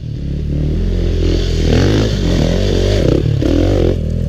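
Dirt bike engine revving hard, its pitch climbing and dropping again and again under load on a steep climb.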